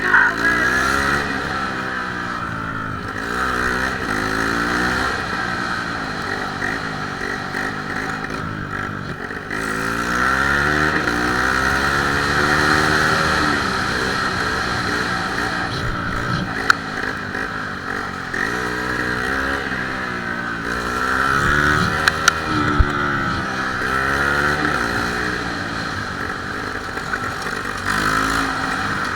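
Motorcycle engine revving up and falling back again and again as the rider goes through the gears, over steady wind noise, with a few sharp knocks near the middle.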